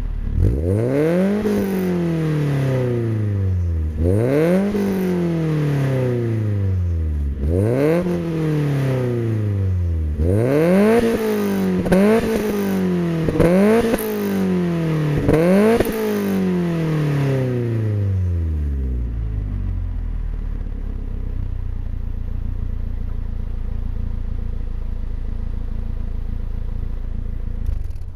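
1994 Eunos Roadster's 1.8-litre four-cylinder engine through a single-exit stainless steel exhaust, blipped about seven times, each rev rising sharply and falling back slowly, then settling to a steady idle about two thirds of the way through. It pops on the overrun, which the owner puts down to an imperfect flexi-tube repair on the exhaust manifold.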